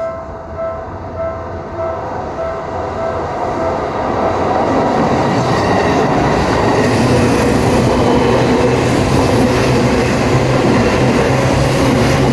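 Japanese level-crossing warning bell ringing its repeating "kan-kan" chime, about two strokes a second. A Seibu Ikebukuro Line train then comes through the crossing: its running noise builds and, from about four seconds in, stays loud and steady, covering the bell.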